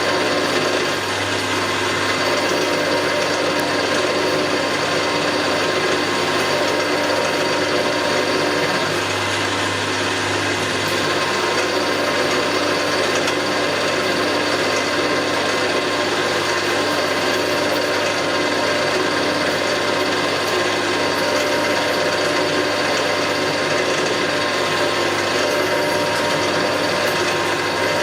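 Metalworking machine tool running steadily under power, cutting the face of a valve test plate. A constant motor hum with cutting noise that neither stops nor changes.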